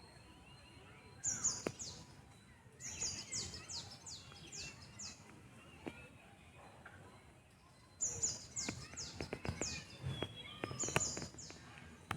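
Birds calling: four bouts of short, high chirps, each chirp falling in pitch, with a few faint clicks in between.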